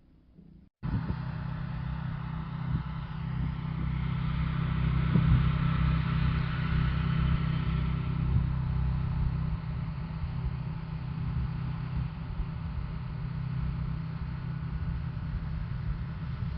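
An engine running steadily, cutting in abruptly about a second in after near silence, with a slight swell in level midway.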